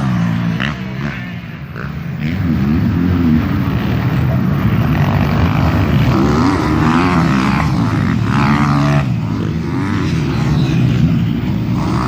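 Motocross motorcycle engines racing, revving up and falling off in repeated pitch sweeps as the bikes go by.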